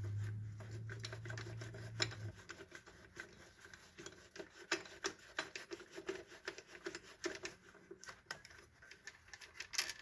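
Irregular light clicks and taps of hand tools and loose metal parts being handled while bolts are removed in the engine bay, with a steady low hum for the first couple of seconds.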